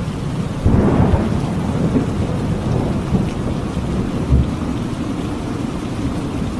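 Thunderstorm: steady heavy rain with a roll of thunder that breaks in suddenly just under a second in and rumbles away over the next few seconds, and another low rumble a little after four seconds.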